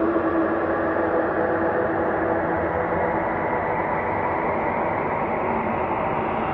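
Ambient space drone soundscape: a steady, rushing hum with faint held tones woven through it. One tone fades a little early on, and the texture slowly shifts.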